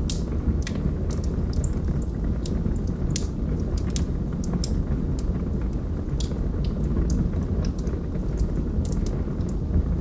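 Logs burning in a fireplace: a steady low rumble of flames with sharp crackles and pops, a few each second.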